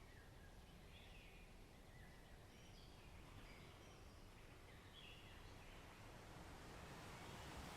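Faint forest birdsong: scattered short high chirps over a low, steady hush of distant surf, which swells a little near the end.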